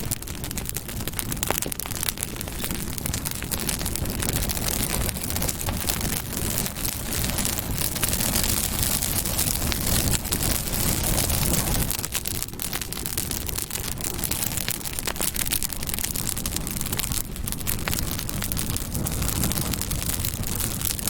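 Campfire burning: a steady rushing noise of the flames with dense, irregular crackling and small pops from the burning wood.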